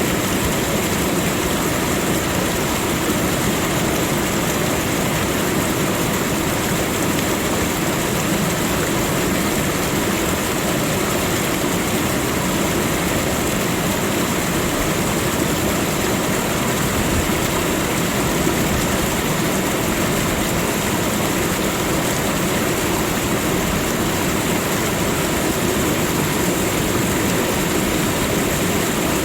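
Rushing water, a steady unbroken noise that does not rise or fall.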